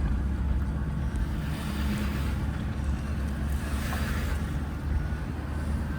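Steady engine and road noise inside a moving pickup truck's cab: a low drone, with rushing noise swelling twice.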